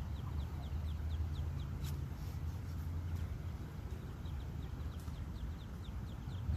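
Muscovy ducklings peeping: runs of short, high, falling peeps, several a second, over a steady low rumble.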